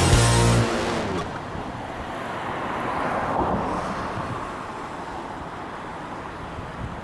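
Background music cuts off about half a second in, leaving strong wind on the microphone and choppy lake waves. The noise swells briefly around the middle.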